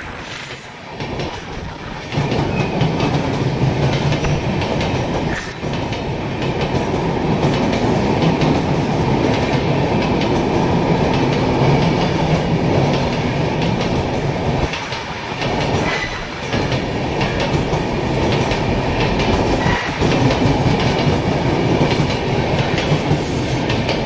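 Long-distance passenger train of red coaches rolling past along the platform track, a steady rumble of wheels on the rails that grows louder about two seconds in, with a few brief knocks.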